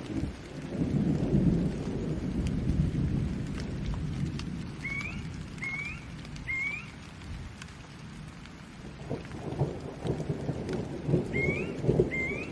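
Steady rain with rolling thunder. The rumble eases around the middle and builds again near the end. A few short rising chirps cut through: three in a row about midway and two more near the end.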